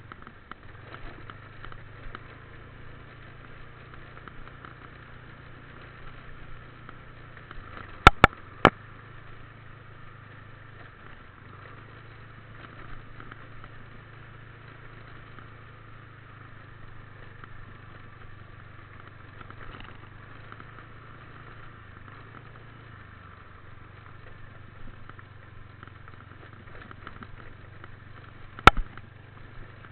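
Motorbike engine running steadily with a low hum, its note shifting slightly a couple of times. Sharp loud clicks cut through it, three together about 8 seconds in and one more near the end.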